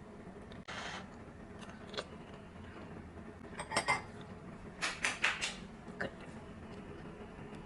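Cutlery clinking against dishes, with a cluster of light clinks a little under four seconds in and another, quicker run of clinks around five seconds.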